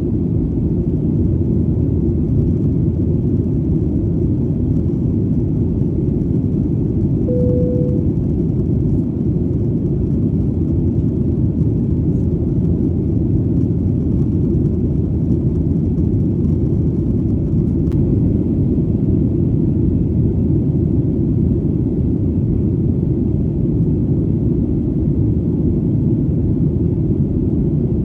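Airplane in flight: a deep, steady engine rumble that does not change, with a short faint tone about seven and a half seconds in.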